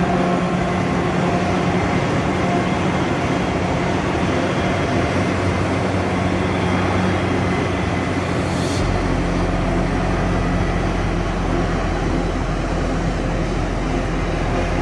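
Heavy farm machinery running steadily in the field, a diesel engine hum with mechanical noise over it. About nine seconds in the sound changes abruptly and a deeper low hum comes in.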